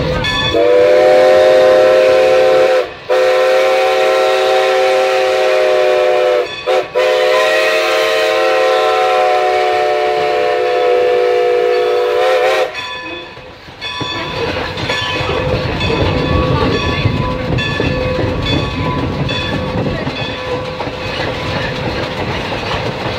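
Steam locomotive No. 90's chime whistle blowing the grade-crossing signal: two long blasts, a short one and a long one. After that the train runs on with a steady rumble of wheels on the rails.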